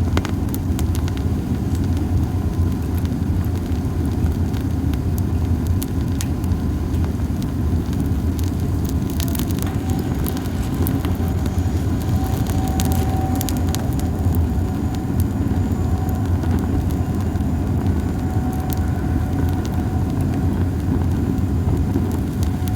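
Campfire of dried Japanese cypress (hinoki) cones burning, with sparse sharp crackles and pops, a quick flurry of them about ten seconds in, over a steady low rumble.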